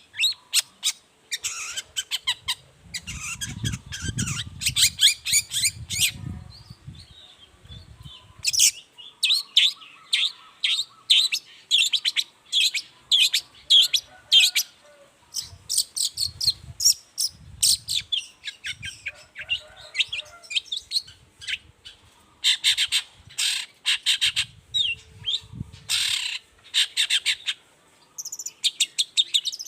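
Long-tailed shrike (cendet) singing: rapid runs of short chirping notes in bursts with brief pauses, with a few dull low thumps mixed in.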